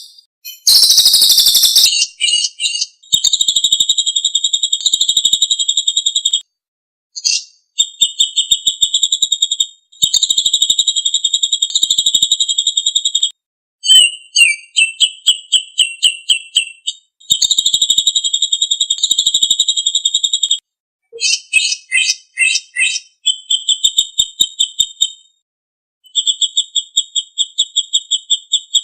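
A songbird sings a masteran song of high-pitched, very rapid trills. They come in phrases of two to four seconds with short pauses between, mixed with a few choppier, stuttering phrases.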